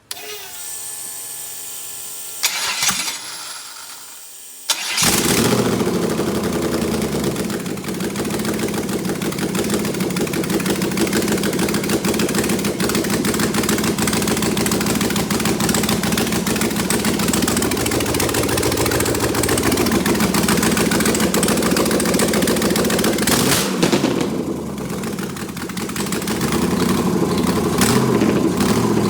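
GM 6.0 L LS V8 with no headers fitted, exhaust open at the ports: the starter cranks for about five seconds with a brief burst about three seconds in, then the engine catches and runs loudly. Its level dips briefly and rises again near the end.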